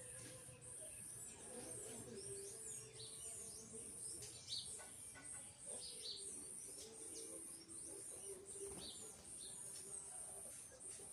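Small birds chirping: many short, quick downward chirps, faint. Behind them runs a steady, very high buzz that pulses about twice a second.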